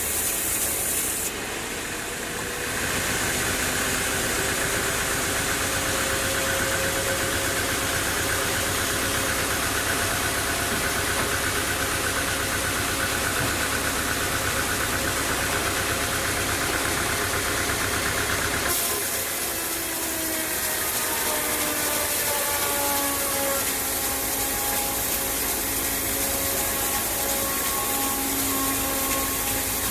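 Sawmill machinery running under engine power with a steady mechanical noise. The sound changes abruptly twice, and in the later part several whining tones drift slowly in pitch.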